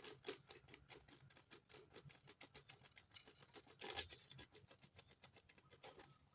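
Faint, rapid, irregular little taps and patters of powdered bird feed (voer) being put and pressed onto a pierced banana by hand, with one slightly louder tap about four seconds in.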